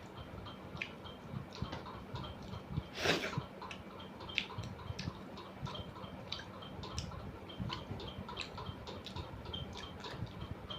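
A person eating rice with dal and mushroom curry close to the microphone: a quick run of small wet clicks from chewing and lip-smacking, several a second, with one short louder rush of noise about three seconds in.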